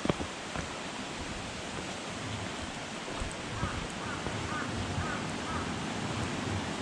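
Steady rushing of a mountain stream's flowing water, with a few faint short chirps through the middle and a couple of light clicks near the start.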